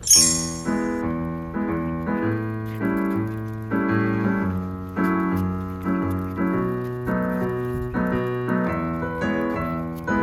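Background music: a piano-like keyboard tune over a bass line, with notes struck on a steady beat. It opens with a bright, high shimmer.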